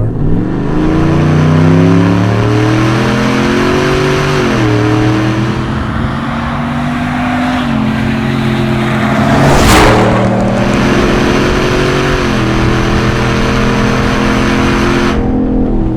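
Supercharged 6.2 L V8 of a Hennessey Goliath 700 GMC Sierra pulling hard at full throttle. The engine note climbs and drops back at each of about four upshifts as the truck gathers speed toward 106 mph. A brief loud rush of noise comes near the middle.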